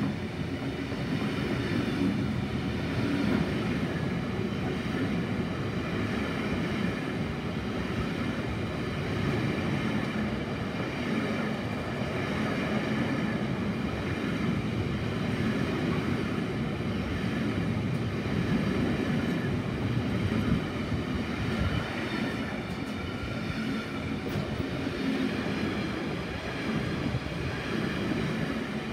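Loaded container freight wagons rolling past close by: a steady rumble of steel wheels on the rails that keeps up evenly as one flat wagon after another goes by.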